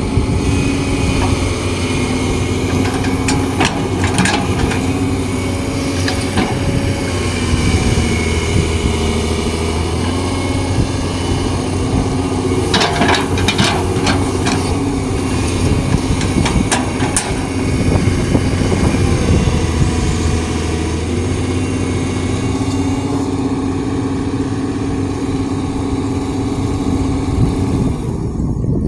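Hydraulic excavator's diesel engine running steadily, its pitch shifting slightly as it works, with a handful of sharp metallic clanks and rattles scattered through the middle.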